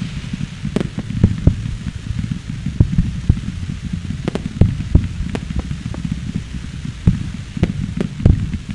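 Fireworks display heard from across the harbour: a continuous low rumble of bursting shells with many sharp bangs and crackles at irregular intervals.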